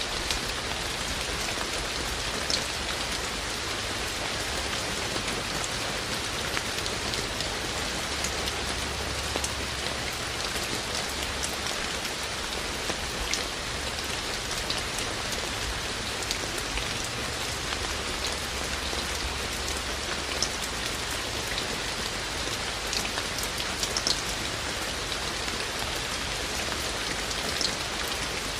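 Steady rain falling, an even hiss with frequent sharp individual drops pattering on hard surfaces close by.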